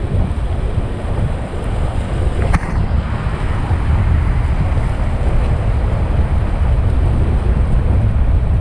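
Wind buffeting the microphone over the steady rush of river water on a rafting run, with one brief sharp sound about two and a half seconds in.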